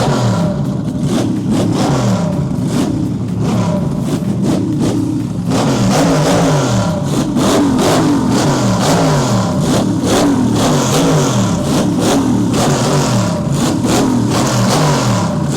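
Car engine revved over and over, the pitch dropping after each blip.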